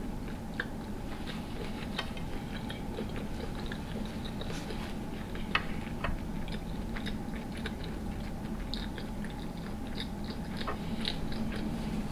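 Chewing a mouthful of sauce-drenched potato, shrimp and sausage, with irregular wet smacks and small clicks.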